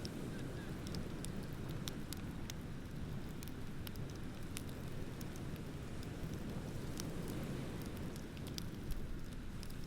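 Wood bonfire crackling, with frequent sharp pops scattered at irregular moments, over a steady low rush of ocean waves.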